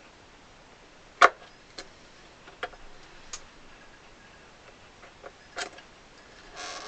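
Scattered small clicks and taps, about six of them, from a screwdriver and a small screw being handled. The sharpest click comes about a second in, and there is a brief rustle near the end.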